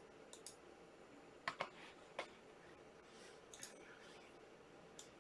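Near silence broken by a few faint, short clicks and taps: a quick pair about one and a half seconds in, another just after two seconds, and a couple more later on.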